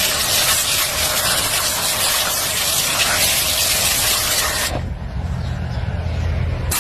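A loud, steady rushing hiss that cuts off abruptly about two-thirds of the way through, giving way to a low steady hum.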